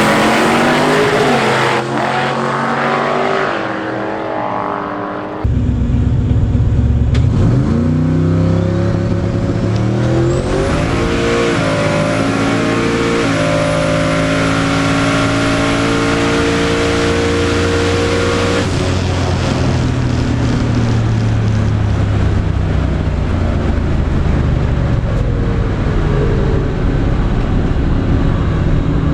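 Twin-turbocharged drag car's engine under hard acceleration: it cuts in suddenly loud about five seconds in and climbs in pitch through several steps. A high thin whine sits over it for about eight seconds in the middle, then the engine carries on steadily.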